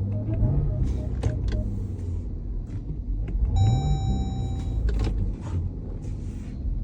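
A 2018 Jeep Grand Cherokee Trackhawk's supercharged 6.2-litre V8 idling with a steady low drone while the transmission fails to engage and the truck does not move. The engine note rises briefly twice, with a few clicks and a short electronic beep from the cabin about three and a half seconds in.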